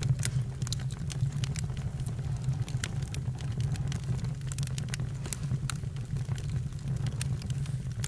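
Campfire burning: wood crackling with many short, sharp pops scattered irregularly over a steady low noise.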